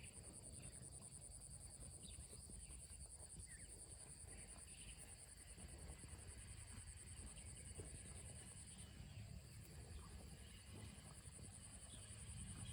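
Insects trilling steadily in a high-pitched chorus, which fades for a few seconds near the end, over a faint low rumble.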